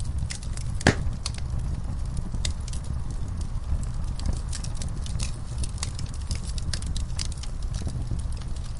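Wood fire burning in a fireplace: a steady low rumble of flames under frequent sharp crackles and pops, with one loud pop about a second in.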